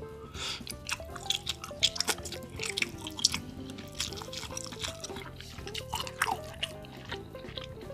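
Close-miked wet eating sounds, with lip smacks and chewing clicks, from biting into and chewing a boiled egg coated in tteokbokki sauce, over soft background music.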